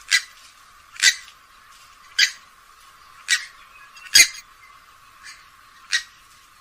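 Grey-headed swamphen calling: a series of short, sharp calls repeated about once a second, one of them faint and the one about four seconds in the loudest.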